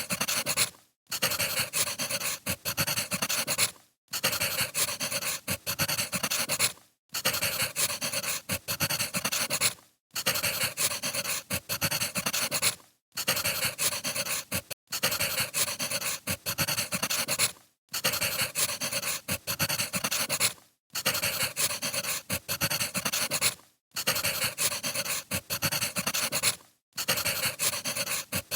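Wood fire crackling and popping, cut by a brief silence about every three seconds, as a short recording repeats.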